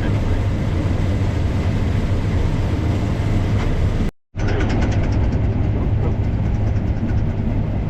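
A vehicle engine running steadily with a deep, even drone, cutting out for a moment about four seconds in; after the break a quick light rattling rides over the drone.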